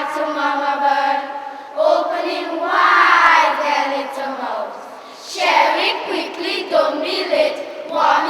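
A group of children chanting a poem together in a sing-song unison, in phrases with long held vowels.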